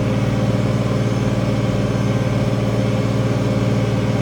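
International 1566 tractor's turbocharged six-cylinder diesel running steadily under load, pulling a field cultivator.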